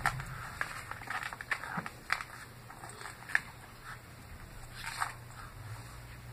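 Chewing a mouthful of crunchy salad close to the microphone: irregular crunches and mouth clicks, the loudest about three seconds in.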